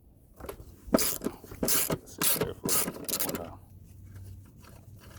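A 13 mm (half-inch) ratchet wrench working a bolt loose on a mower's belt housing: a quick run of about eight short raspy strokes between one and three and a half seconds in.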